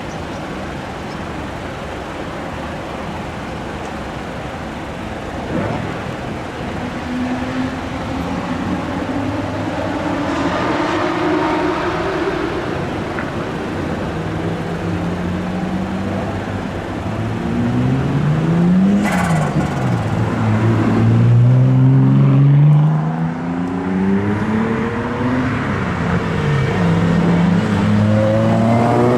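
Engines of classic Japanese cars being revved, the pitch climbing and dropping in repeated throttle blips that grow louder through the second half. A single short, sharp crack comes about 19 seconds in.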